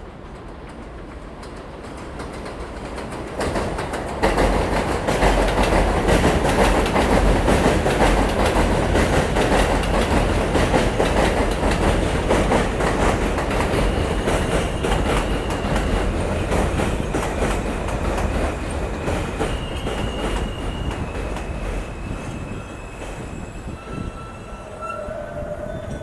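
A New York City subway F train on the elevated Culver Line rolling through the station, with rattling wheels and rail clatter. It builds up over the first few seconds, stays loud for about fifteen seconds, then eases off near the end, when a few thin high-pitched tones from the wheels or motors come through.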